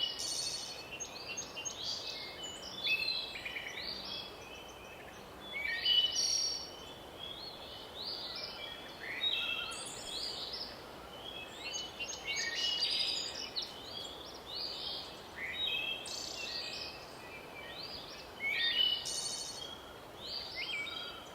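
Several birds chirping and calling in short, overlapping notes over a steady background hiss of outdoor ambience.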